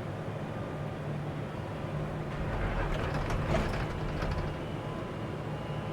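Excavator diesel engine running steadily, with a louder stretch of rattles and knocks from the machine in the middle.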